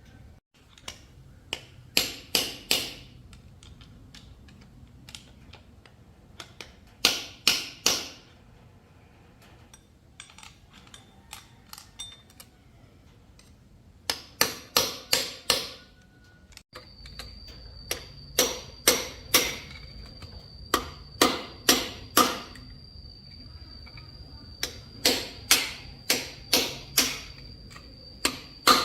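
Metal being struck with a hammer in quick bunches of four to six blows, with pauses between the bunches. A steady high tone runs under the later strikes.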